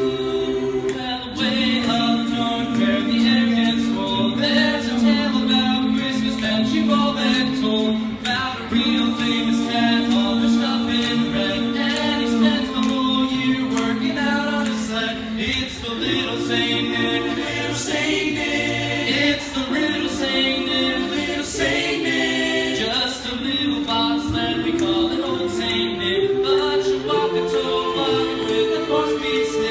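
A cappella vocal group singing held chords without instruments, the harmony shifting to a new chord every few seconds.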